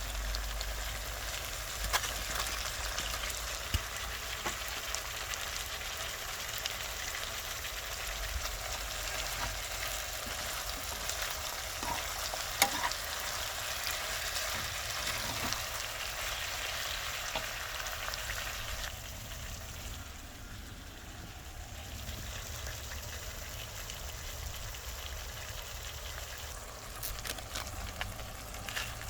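Chicken karahi frying in a karahi pan: a steady sizzle, with a few sharp clicks of stirring. The sizzle eases off for a few seconds about two-thirds of the way through, then picks up again.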